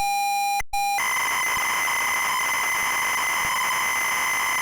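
Electronic intro sound: a loud steady beep tone, broken once by a short gap, followed about a second in by a steady loud hiss with a thin high whine running through it.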